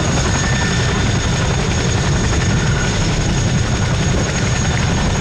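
Modified Boeing Stearman biplanes with 450 hp radial engines flying a display, a steady drone of engines and propellers.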